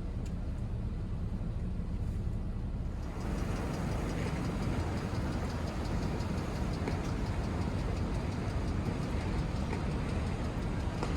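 A Jeep driving on snowy city streets, heard from inside the cabin: a steady engine and road rumble, with a broader hiss of road noise coming in about three seconds in.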